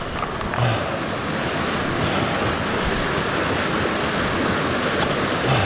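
Rain-swollen canyon creek runoff rushing steadily, a loud, even rush of flowing water.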